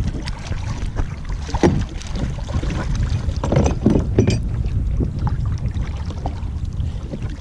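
Water splashing and sloshing as a person in waders wades through shallow water, with a few louder splashes about a second and a half in and again around four seconds, over a steady low rumble of wind on the microphone.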